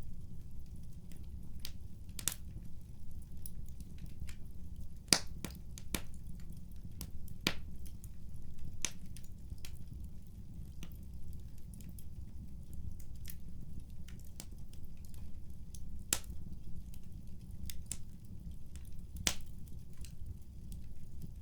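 Wood fire crackling in a fireplace: a steady low rumble of flames with sharp, irregular pops and snaps, the loudest about five seconds in.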